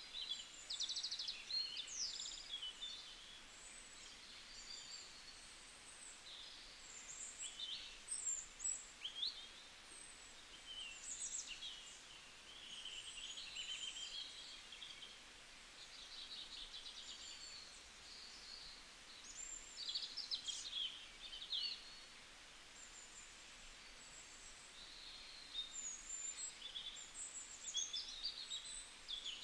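Several birds calling over each other: quick high chirps, short whistles and buzzy trills, coming and going throughout over a faint steady hiss.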